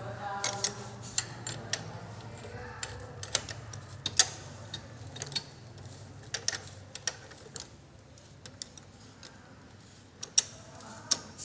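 Irregular sharp metallic clicks and taps of hand tools and steel parts while the motorcycle's rear monoshock mounting is worked on, with a faint low hum under the first half.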